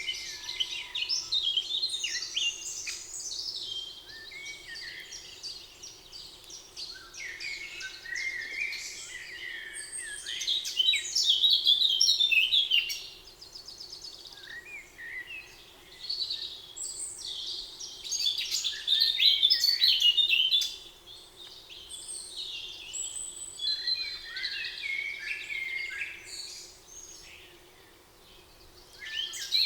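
Several songbirds singing at once in a spring woodland chorus, bright overlapping phrases and chirps coming in bouts, with a faint steady hum beneath.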